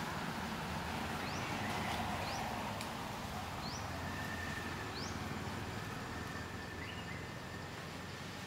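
Forest ambience: a steady hiss with a bird giving short, quickly rising chirps, about five of them a second or so apart, and a faint thin whistle-like tone in the second half.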